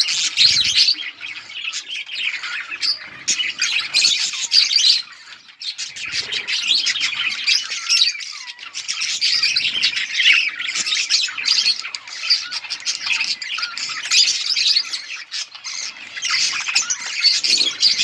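Several budgerigars chattering and chirping together in a continuous, busy stream of rapid warbles and squawks, with a brief lull about five seconds in.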